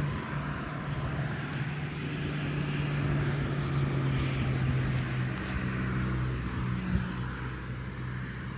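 Steady low engine drone of a distant vehicle or aircraft, slowly dropping in pitch, over outdoor background noise.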